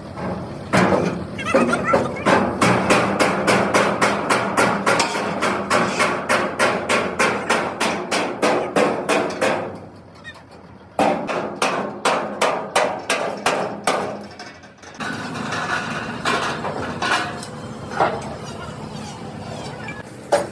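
Hammer blows on metal in a fast, even rhythm of about three or four strikes a second, in two long runs with a short pause between them, then a few scattered knocks.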